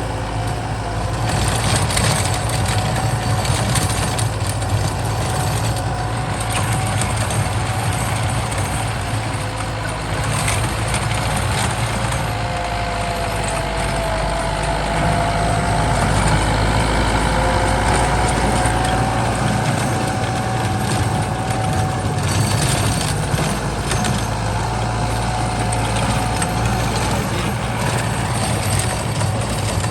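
Kubota M8540 tractor's diesel engine running steadily under load, with a thin whine above it that wavers slightly in pitch.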